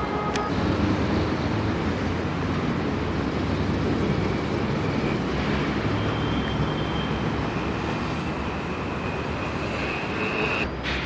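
Steady rumble of road traffic, with a faint high whine from a passing vehicle in the second half.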